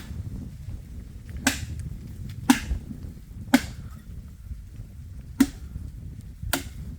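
Blade chopping into a dry tree branch: six sharp chops about a second apart, irregularly spaced, over a low steady rumble.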